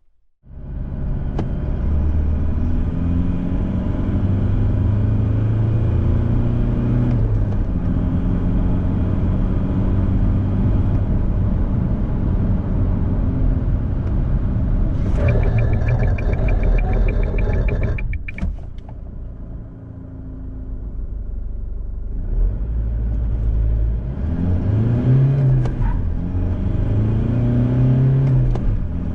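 Isuzu D-Max's 3.0-litre four-cylinder turbo-diesel under hard acceleration, its pitch stepping with manual gear changes. A fast even ticking joins for a few seconds in the middle. Then the engine drops back, and near the end it is revved up and down in short blips.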